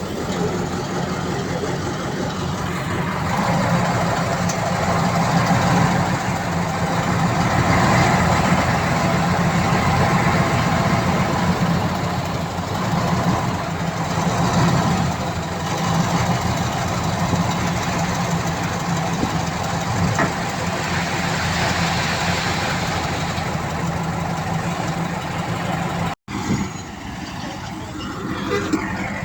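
Heavy diesel engine of earthmoving machinery running steadily, getting louder for a stretch in the middle, then cutting out for an instant near the end.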